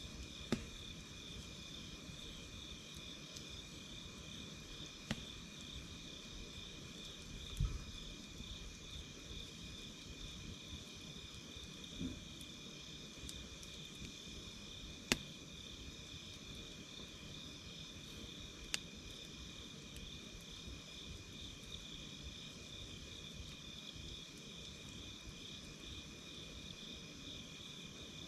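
Night insects, crickets among them, chirping in a steady, unbroken chorus at two pitches. A campfire gives a handful of isolated sharp crackling pops, several seconds apart.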